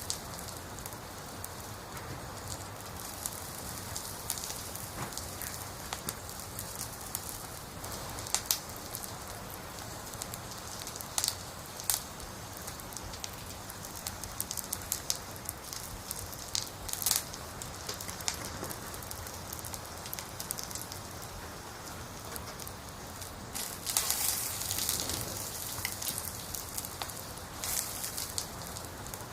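Wood fire burning: a steady hiss with scattered sharp pops and crackles from the burning logs, a busier spell of crackling near the end.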